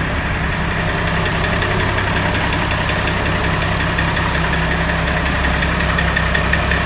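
International Harvester 1586 tractor's six-cylinder turbo diesel idling steadily just after a cold start, running to recharge its battery.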